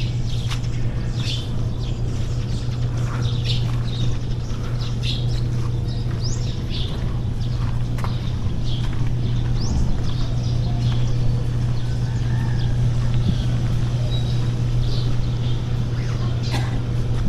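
Birds chirping on and off, with short high calls and a few quick rising notes, over a steady low hum.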